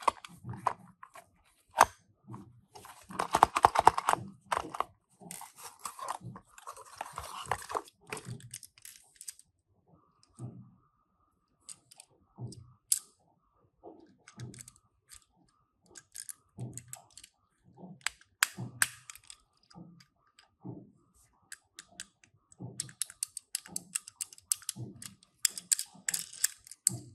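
Hands handling small die-cast toy cars and their packaging: scattered clicks and light knocks, with a stretch of rustling a few seconds in and a run of quick clicks near the end.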